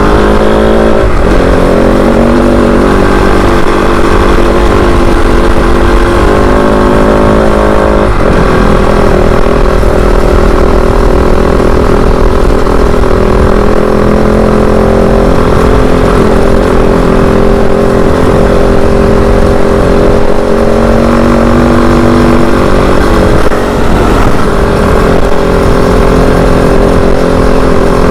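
Kove 450 Rally dual-sport motorcycle engine running under way, loud and steady, with the engine pitch shifting sharply about a second in and again about eight seconds in.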